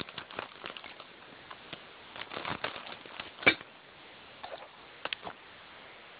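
A package being cut open with scissors and handled: irregular crinkling and clicks, with one sharper click about three and a half seconds in.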